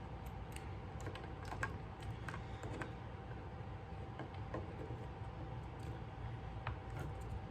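Faint, scattered light clicks and taps of small parts being handled while a 9-volt battery is worked into a bass guitar's control cavity.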